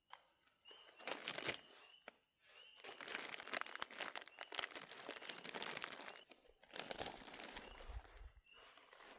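Crinkling and rustling of material being handled, coming in several bursts of a second or more. A faint high chirp repeats steadily in the background.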